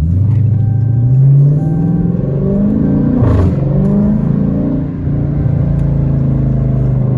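Straight-piped Dodge Challenger exhaust under acceleration: the engine note climbs, drops sharply at a gearshift about three seconds in, climbs again, then settles into a steady drone from about five seconds in.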